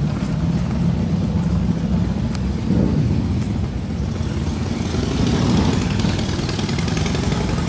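Motorcycle engine running, a steady low rumble that swells a little twice.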